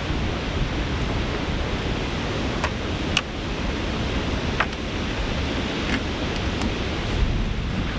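Strong wind rushing and buffeting the microphone, a steady heavy rumble, with a few short sharp clicks or taps scattered through it.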